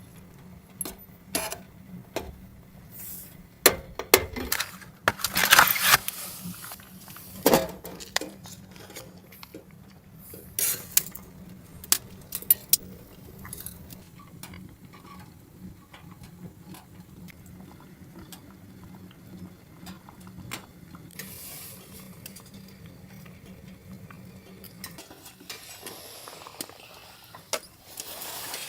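Metal pots, pans and utensils clinking and knocking in scattered, irregular strikes while food is prepared. The strikes are busiest in roughly the first half and grow sparse later.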